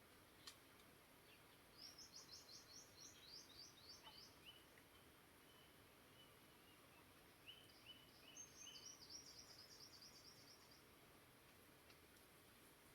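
Songbirds singing softly in two runs of quick, high, repeated chirps, the first about two seconds in and the second near eight seconds, over the faint steady hiss of a flowing stream.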